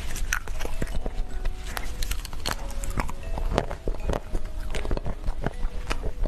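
Close-miked chewing of chocolate cake: irregular wet mouth clicks, lip smacks and soft bites following one another rapidly.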